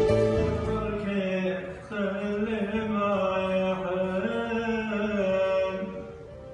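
A man singing unaccompanied in Arabic, a slow ornamented line with long held and wavering notes. Instrumental music fades out in the first second.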